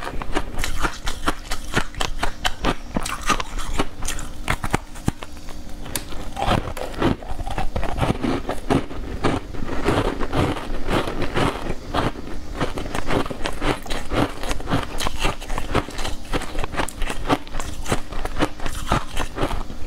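Close-miked chewing of a bite of sweet cake coated in green powder: a steady run of quick wet mouth clicks and smacks.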